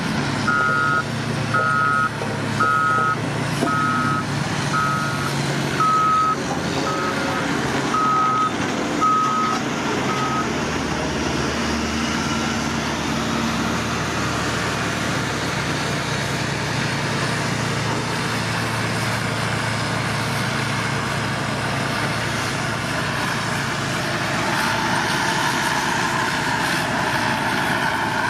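A heavy construction machine's reversing alarm beeping about once a second for roughly ten seconds, then stopping, over the steady running of its diesel engine, which carries on after the beeping ends.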